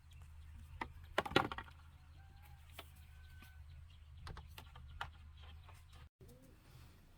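Scattered light knocks and clicks, with a louder cluster about a second in, over a low steady hum. Faint short chirps come in between.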